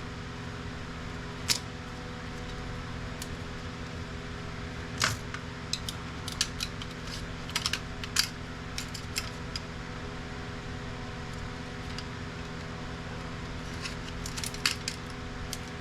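Scattered sharp clicks and clinks of plastic and metal printer parts being handled and pried during disassembly, bunched about a third of the way in and again near the end, over a steady background hum.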